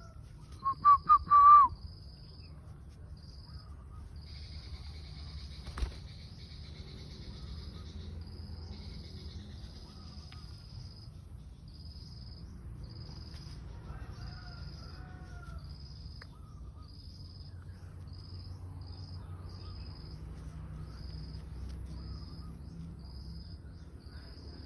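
A few loud short bird calls about a second in, then an insect chirping in short high pulses that repeat steadily, with faint bird calls and a low steady rumble underneath.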